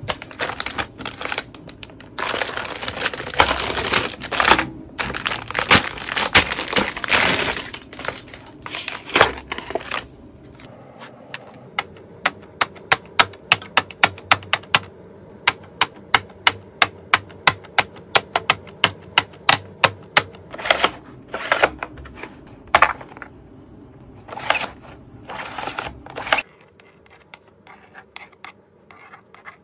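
Magnetic drawing board in use: scratchy strokes of the magnetic pen across the board for several seconds, then a long run of sharp clicks at about three a second, then a few more short strokes before it goes much quieter.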